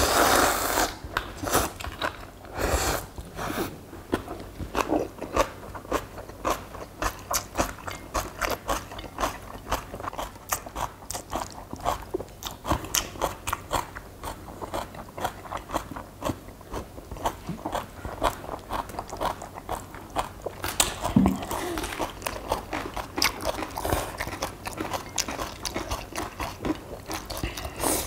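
Close-up chewing and crunching of fresh napa cabbage kimchi with ramyun noodles: many crisp crunches in quick succession, with a few louder, noisier bursts near the start and about two-thirds of the way through.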